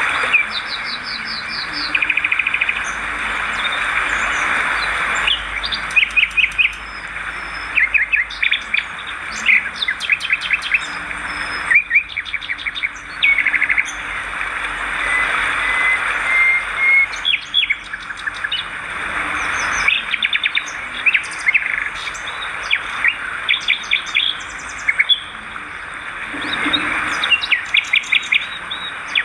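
Swiftlets twittering: rapid trains of short, high chirps, many overlapping, over a steady hiss.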